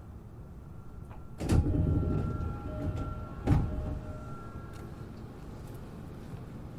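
E233-7000 series train's sliding passenger doors working at a station stop: two heavy thuds about two seconds apart, with faint steady tones between them, over the low steady hum of the stopped car.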